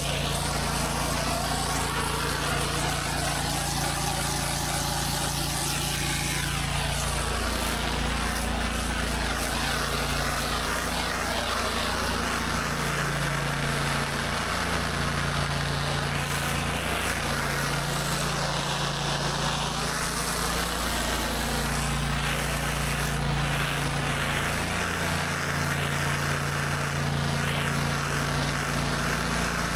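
Gas engine of an 8 GPM pressure washer running steadily under load, its low tone shifting slightly every couple of seconds, over the constant hiss of the high-pressure water from the surface cleaner on concrete.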